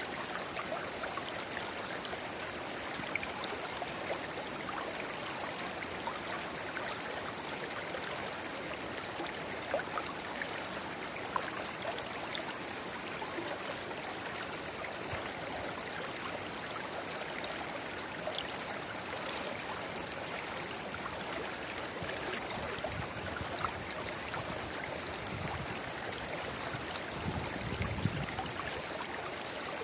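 A shallow river babbling steadily, where a small spring-fed trickle pours into the main stream, with scattered small splashes and plinks. A brief low rumble comes near the end.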